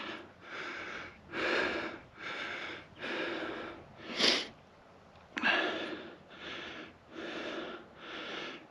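A man breathing hard, a breath in or out roughly every second, a few of them sharper gasps, from the exertion of climbing a steep hill on foot.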